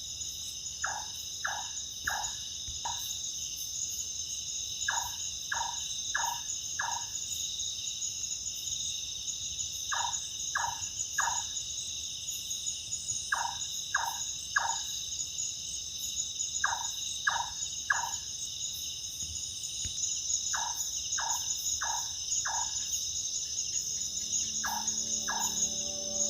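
A night bird calling in bursts of three or four short, clipped notes every three to four seconds, over a steady high chorus of crickets and other insects. Background music comes in near the end.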